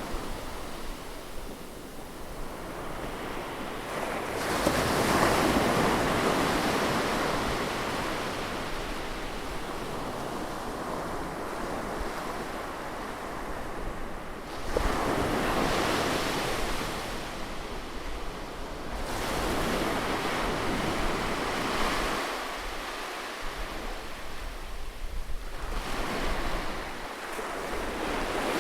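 Ocean surf on a beach: waves breaking and washing in, swelling louder about four seconds in, again around fifteen and twenty seconds, and once more at the end, with a steady hiss of water between.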